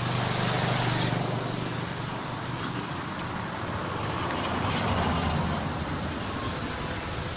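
A motor vehicle's engine running, growing louder about a second in and again around five seconds.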